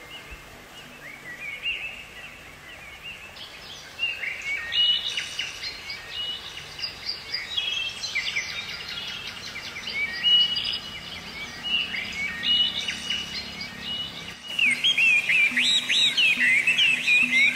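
Songbirds chirping and singing, many short whistled calls and quick trills overlapping, growing denser and louder about three-quarters of the way through.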